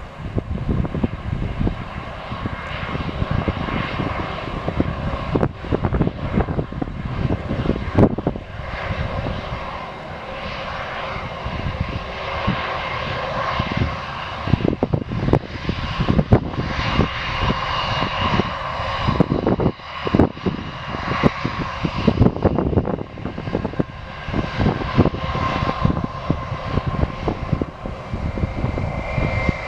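Airbus A320's two IAE V2527 turbofan engines running at high power during takeoff: a loud, rough, crackling rumble with a whine that drifts in strength.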